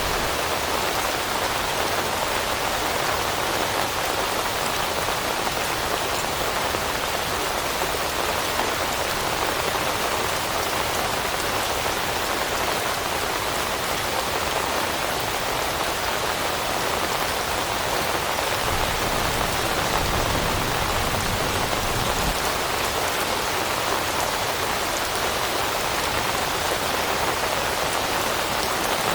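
Steady, even rainfall, a dense patter of raindrops on surfaces with no change in strength.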